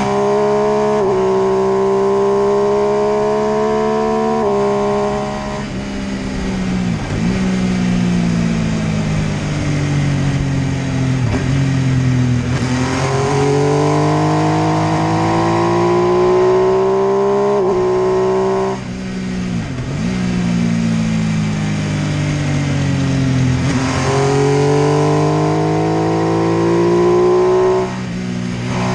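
MV Agusta F3 800's inline three-cylinder engine pulling hard, its pitch climbing through the gears with quick upshifts, then falling away on the overrun with downshifts, twice more in a repeating accelerate-and-slow pattern.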